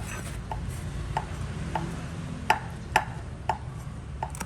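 A series of short, sharp clicks or taps, about two a second, over a steady low hum; two clicks in the middle stand out loudest.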